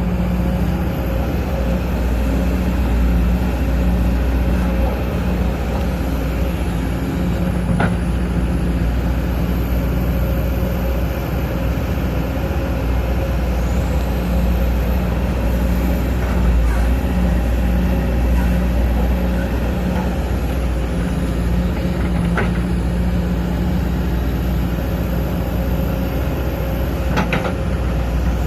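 Sumitomo SH210 hydraulic excavator's diesel engine running steadily under working load, with a few sharp knocks scattered through.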